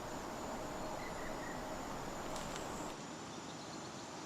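Faint outdoor ambience with a thin, steady, high insect whine, which drops away about three seconds in.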